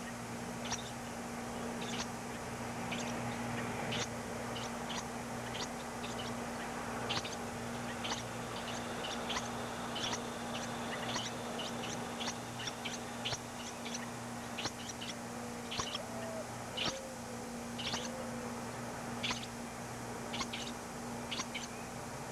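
Nestling birds cheeping: short, high chirps repeated irregularly, several a second, over a steady low electrical hum.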